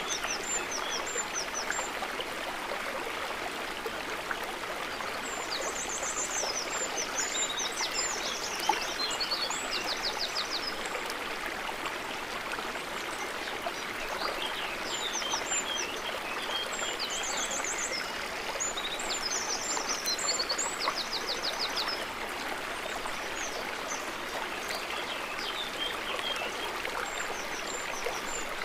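Water trickling and gurgling steadily, with a bird's high-pitched chirps and rapid trills in several bouts: about a quarter of the way in, through the middle, and again near the end.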